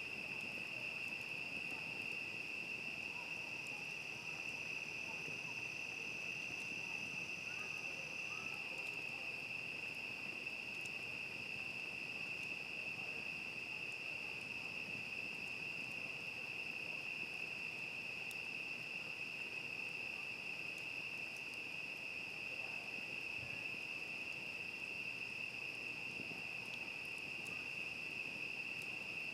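A chorus of crickets chirring on one steady high note with a fainter higher band above it. A second, higher insect note runs alongside for a few seconds early in the stretch, then stops.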